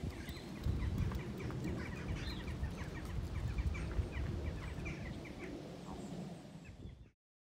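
Birds calling in many quick, short chirps over a steady low rumble. The sound cuts off suddenly near the end.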